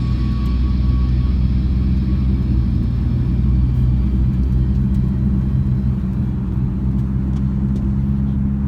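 Car engine running steadily with road noise, heard from inside the moving car's cabin.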